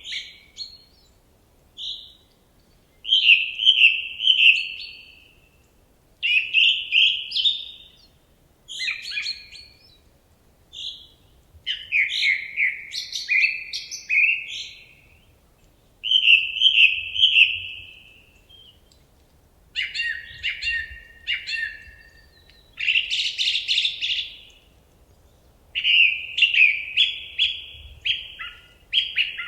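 A songbird singing in a forest: about ten clear, warbling phrases, each a second or two long and separated by short pauses.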